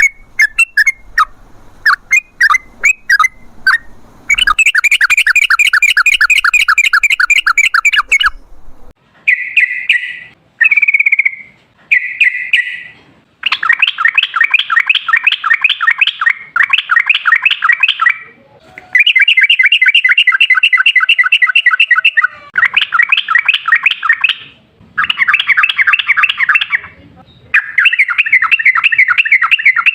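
Yellow-vented bulbul (trucukan) singing: scattered sharp chirps at first, then long, fast chattering trills of rapidly repeated notes in runs of two to four seconds with short pauses between them. This is the long rapid 'ropel' song used as a lure to set other bulbuls singing.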